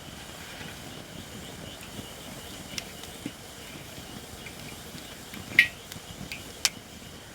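Campfire of Japanese white oak firewood crackling, with about five sharp pops, the loudest a little past halfway, over a faint steady high hiss.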